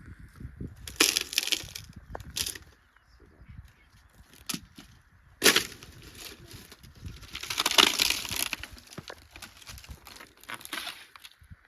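Dry sticks and brushwood being broken by hand: stretches of crunching with several sharp cracks, the sharpest about halfway through.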